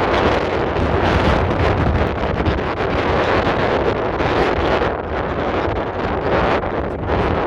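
Strong wind buffeting the microphone: a loud, continuous rush with a heavy low rumble, swelling and easing in gusts.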